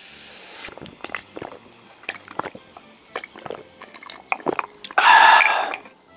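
A person chewing grilled bulgogi close to the microphone, with wet smacks and clicks. A steady hiss stops under a second in, and a loud noisy burst lasting about a second comes near the end.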